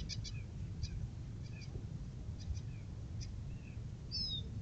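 Small birds calling with short, high chirps at irregular intervals, with one quick falling whistle about four seconds in, over a steady low rumble.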